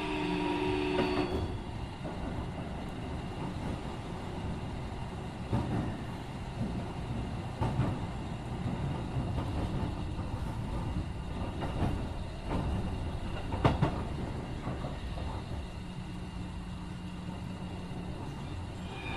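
Keikyu 1500 series electric train heard from inside the car: the whine of its Mitsubishi IGBT-VVVF inverter stops about a second in and the train coasts, wheels rumbling with a few sharp clacks over rail joints. The inverter whine comes back near the end as power is applied again.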